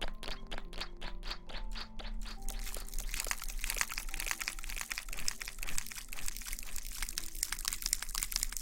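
Close-miked ASMR hair-washing sounds: a quick run of even taps for the first two seconds or so, then a dense wet crackling, as of lathered hair being scrubbed close to the microphone. Faint background music underneath.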